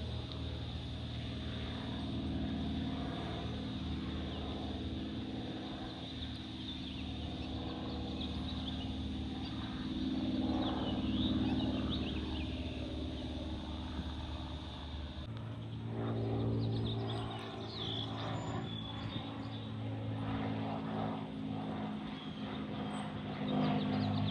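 Propeller aircraft engine drone, steady and pitched, with an abrupt change in its tone about fifteen seconds in.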